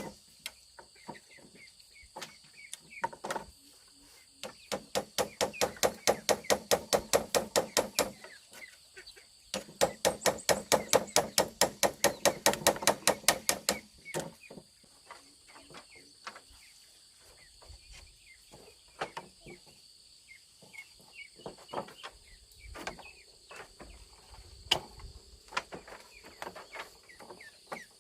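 Rapid, even knocking in two runs of several seconds each, about six strikes a second, with scattered lighter taps between.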